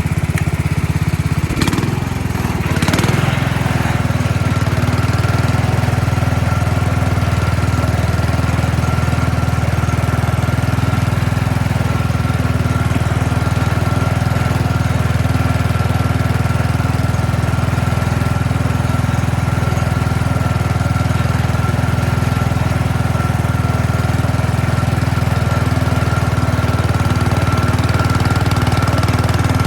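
Tecumseh engine of a 1967 Sears Super 12 garden tractor running steadily and evenly, with a brief dip and two sharp clicks about two seconds in.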